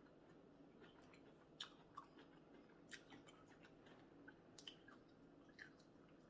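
Faint chewing, with a handful of soft, scattered mouth clicks.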